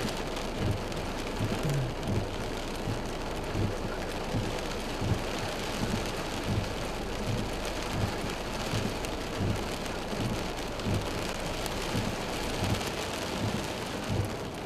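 Heavy, steady rain pouring down, with a soft low thud repeating about every two-thirds of a second.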